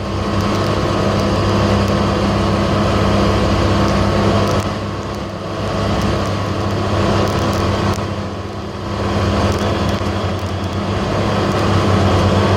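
Vehicle engine running steadily with a low hum, its level dipping briefly about five seconds in and again about eight seconds in.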